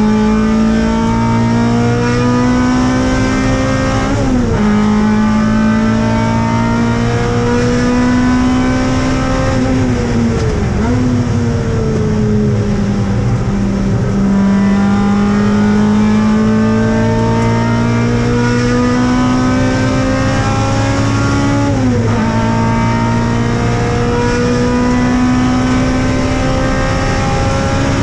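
Mazda MX-5's 1.8-litre BP four-cylinder with big cams, heard from inside the stripped cabin, running hard at high revs on track. The pitch climbs slowly in each stretch and briefly dips sharply three times: about four seconds in, around ten to eleven seconds, and near twenty-two seconds.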